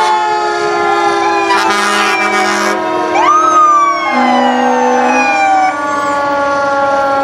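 Fire truck sirens sounding together: a siren winding slowly down in pitch throughout, a second one rising sharply and falling again about three seconds in, and two steady horn blasts of about a second each.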